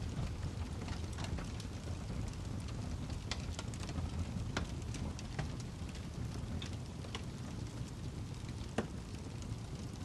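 Wood fire burning in a fireplace: a steady low rumble of flames under scattered sharp crackles and pops from the burning log, with one louder pop near the end.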